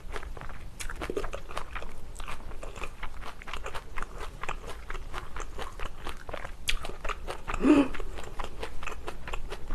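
Close-miked chewing of a mouthful of bibimbap with flying fish roe and chopped chili peppers: a run of quick, wet, crunchy clicks. A short, louder throat sound comes about three-quarters of the way through.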